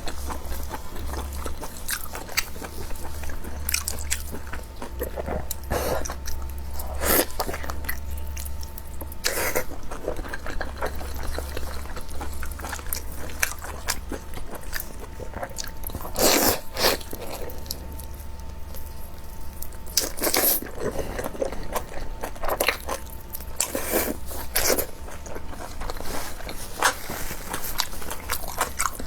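Close-miked chewing and biting of food, with irregular wet smacks and crunches, over a low steady hum.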